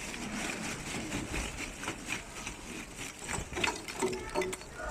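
Lumps of charcoal being poured out of a bag onto a pile, clattering and rattling in a continuous irregular stream.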